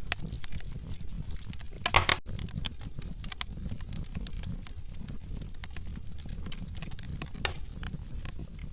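Wood fire crackling in a fireplace: scattered sharp pops over a low rumble of the flames, with a louder burst of pops about two seconds in and another one late on.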